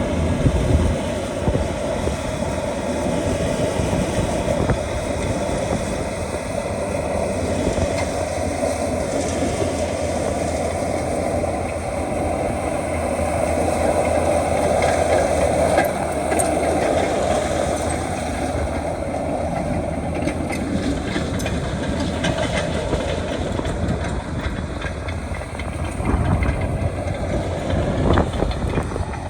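Heavy earthmoving machinery's engine running steadily under load, with scattered faint knocks and clanks in the second half.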